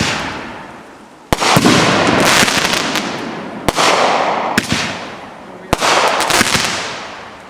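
Aerial fireworks bursting: four sharp bangs one to two and a half seconds apart, each trailing off over a second or two.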